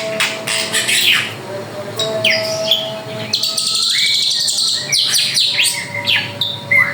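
Drongo in full song: a rapid, varied run of whistled and gliding notes and sharp chirps, with a buzzy trill a little past halfway.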